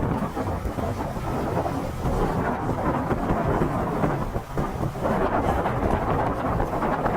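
Storm noise: a dense, steady rushing of strong wind buffeting the microphone, with a grainy crackle, dipping briefly about halfway through.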